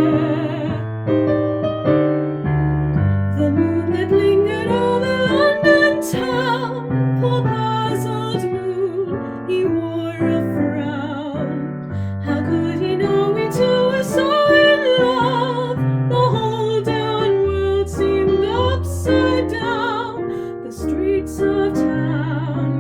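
Instrumental music: a keyboard plays a slow melody with vibrato over sustained bass notes and chords, the melody climbing in long phrases.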